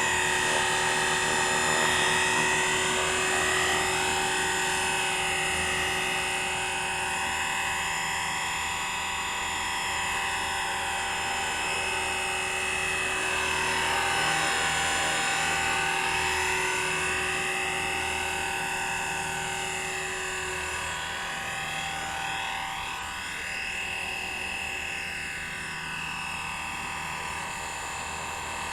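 ALZRC X360 electric RC helicopter hovering: a steady whine from the motor and main rotor gear drive, made of several level tones with slow sweeps rising and falling as the helicopter drifts. The abnormal gear noise comes from the motor's pinion gear, which is worn down by half against the main rotor gear and is shedding brass-coloured metal powder.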